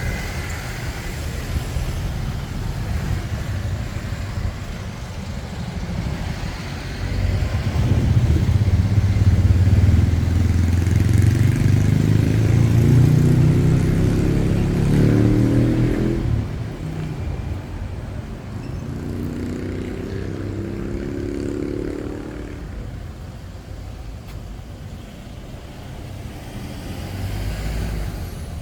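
Road traffic going past close by. One vehicle engine gets loud about seven seconds in and climbs in pitch as it accelerates away. A second engine revs up briefly a little after the middle.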